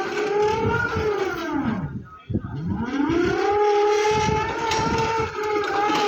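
Electric motor whine of a Jungheinrich ETV 16 reach truck, winding down to a stop about two seconds in and then winding back up, over a steady pitched tone.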